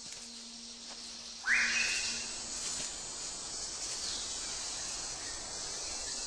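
Forest ambience: a steady high insect drone, with one loud whistled bird call about a second and a half in that rises in pitch and then holds for about a second.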